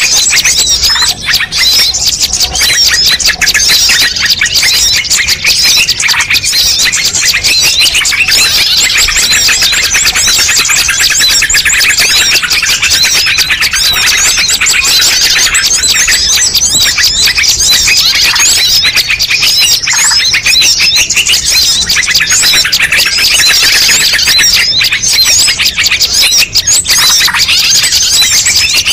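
Dense, continuous chorus of many small songbirds chirping and twittering over one another, a mixed bird-lure (pikat) recording made to draw wild birds in.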